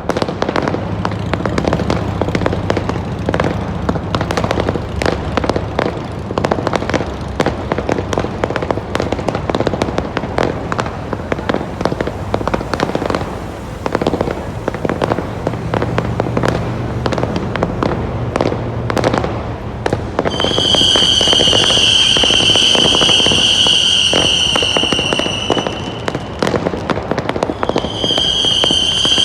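Fireworks going off in a dense barrage of rapid crackling pops and bangs. About two-thirds of the way through, a loud, steady, high whistle from whistling fireworks sounds for several seconds, then starts again near the end.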